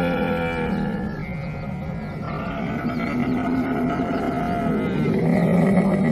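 Camel calling in long, low, rumbling groans, several overlapping and running into one another, loudest near the start and again about five seconds in.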